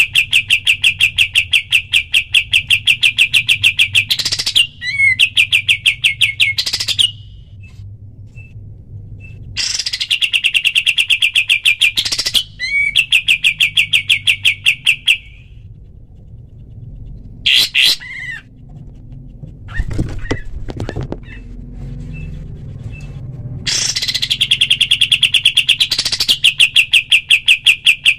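Kapas tembak bird singing its rapid-fire 'tembak' song: long runs of fast, even notes at about ten a second, in three bouts separated by pauses, with a short call in the middle gap. A steady low hum runs underneath.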